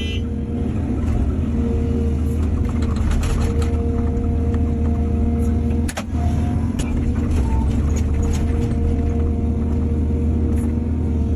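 Excavator's diesel engine running steadily under load with a constant whine over the low rumble, and scattered knocks, the sharpest about six seconds in.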